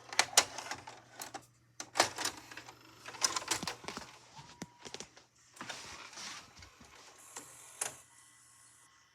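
A VHS cassette being loaded into a VCR: a string of plastic clicks and clunks with short mechanical whirs, over a low electrical hum.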